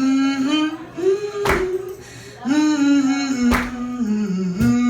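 A voice singing long, held wordless notes that glide from pitch to pitch, with a sharp percussive hit every second or two.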